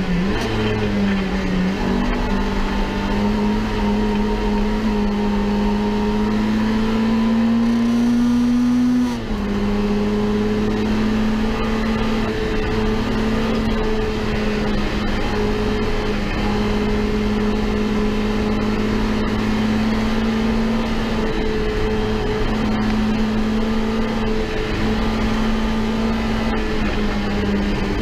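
Citroën AX Sport's four-cylinder engine heard from inside the cabin, running hard at high revs. For several seconds the revs wind steadily up, then about a third of the way in they drop suddenly at a gear change, and the engine runs on high with small lifts and pickups.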